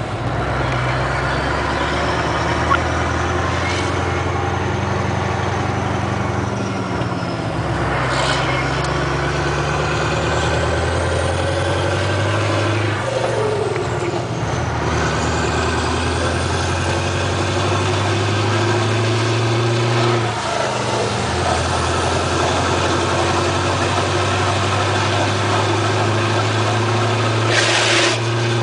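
Scania 143M 450's 14-litre V8 diesel pulling away and accelerating through the gears. The revs climb, fall back at each of three gear changes, and then hold steady, with a short hiss near the end.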